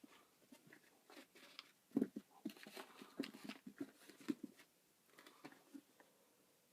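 A Pembroke Welsh Corgi puppy at play, making a faint flurry of quick taps, knocks and scuffles. The clicks are thickest and loudest from about two seconds in, then thin out after four and a half seconds.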